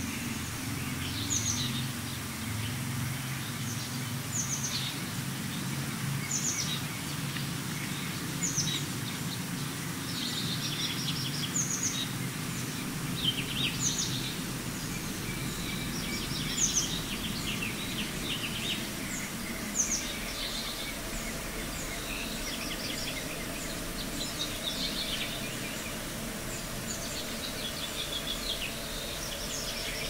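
A songbird singing the same short phrase again and again, about every two to three seconds: a high opening note followed by a quick trill, over a steady low background noise.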